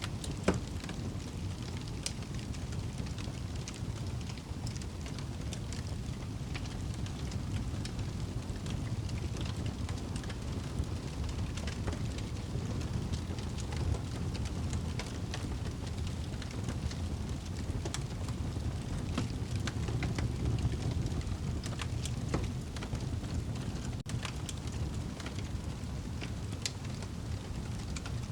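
Wood fire burning in a fireplace: a steady low rush with scattered crackles and pops, the loudest pop about half a second in.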